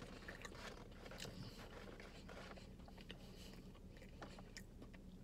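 Faint chewing of French fries, with scattered soft mouth clicks, at the edge of near silence.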